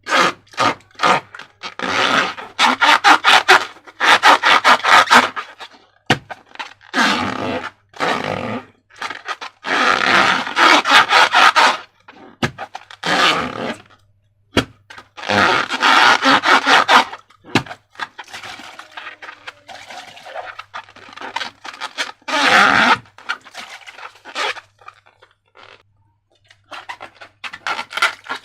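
Sticky slime being squeezed and worked by hand: repeated bursts of wet, crackling squelches with short pauses between them.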